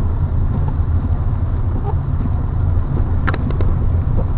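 Steady low rumble of a car driving through snow, heard from inside the cabin, with a few brief clicks about three seconds in.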